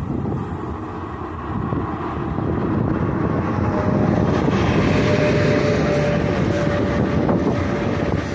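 3ES5K Ermak electric freight locomotive approaching and passing close by, its rumble building to a peak as it goes past. A steady whine joins in as it passes, then the freight wagons roll by behind it.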